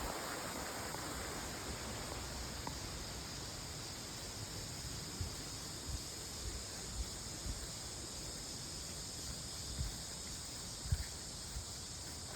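Steady outdoor background of a running creek's hiss with a high, even insect drone over it, broken by a few soft low bumps.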